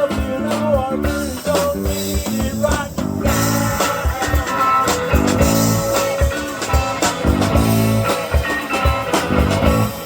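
Live rock band playing an instrumental passage: guitar over a bass line and a steady drum beat.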